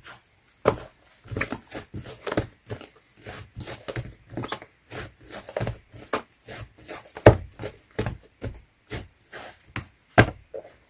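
Slime being squeezed and pressed by hand: a string of short, wet squelches and clicks, a few a second, with louder pops about seven and ten seconds in.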